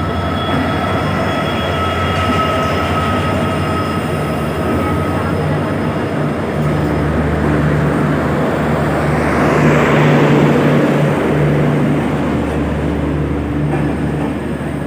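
Passenger train pulling into the platform: the locomotive's engine hums steadily low, with a thin high squeal fading out about five seconds in and a surge of hissing, rushing noise that peaks about ten seconds in.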